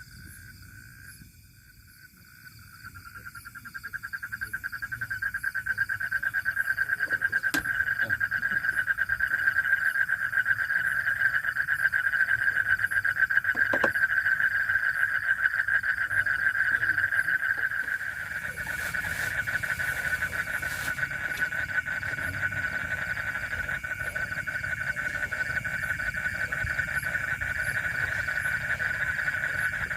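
A steady, high, fast-pulsing trill from night-calling animals. It swells in about two seconds in, and a second, slightly higher trill joins about two-thirds of the way through.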